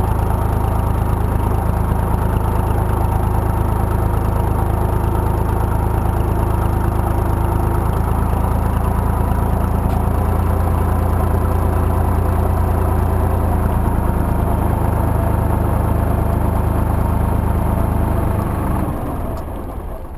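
IMT 2050 tractor's diesel engine running steadily, dying away near the end.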